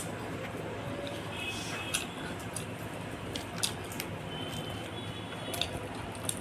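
Close-up eating sounds of someone chewing soft kulcha bread and chickpea curry: wet chewing and lip smacks, with a few sharp mouth clicks a second or two apart, over a steady low hiss.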